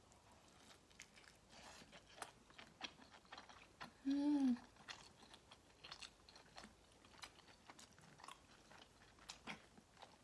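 A person chewing pizza close to the microphone, with soft crunches and wet mouth clicks scattered irregularly. About four seconds in, a short hummed voice sound that rises and falls.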